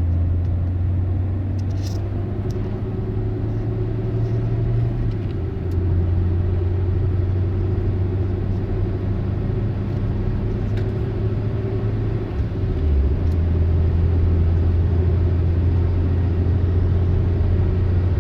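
Citroën C3's engine heard through a Magnaflow rear silencer on the stock exhaust line, running with a steady low drone. The drone's pitch steps slightly about five seconds in and again near thirteen seconds.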